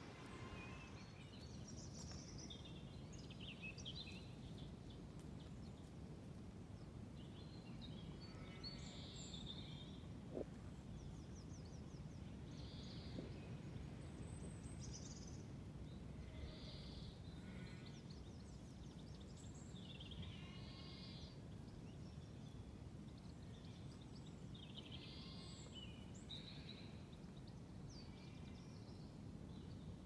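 Faint birdsong: small birds singing short phrases every second or two, over a steady low rumble of background noise.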